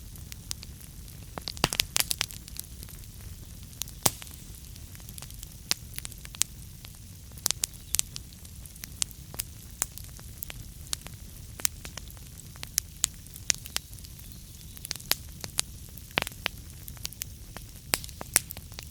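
Wood fire burning in a fireplace, crackling with irregular sharp pops over a steady low rumble, with a quick cluster of pops about two seconds in.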